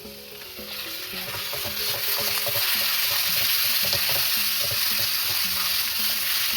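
Food sizzling in hot oil in a pan. The sizzle swells over the first couple of seconds, then holds steady and loud.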